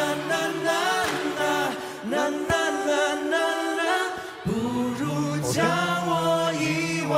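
Several male voices singing in close harmony, holding long chords phrase by phrase with short breaks between them, with little accompaniment beneath.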